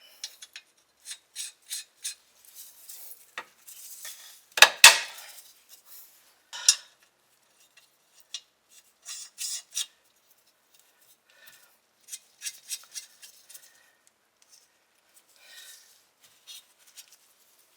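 Metal clinking and scraping as a bolt and hand tools are worked into a car's rear lower shock mount, with a louder clank about five seconds in.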